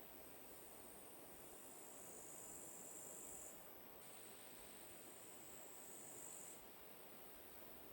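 Faint, high-pitched trilling of insects, swelling louder twice for a second or two at a time, the first swell ending about three and a half seconds in and the second about six and a half seconds in.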